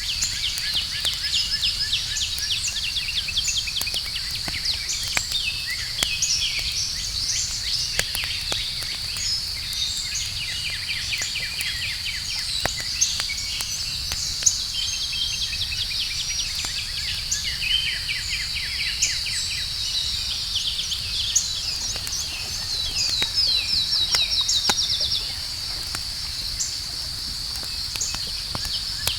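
Outdoor campfire crackling with scattered sharp pops and a low rumble, over a steady high-pitched chorus of night insects and repeated rapid chirping trills; one trill is louder a little after the middle.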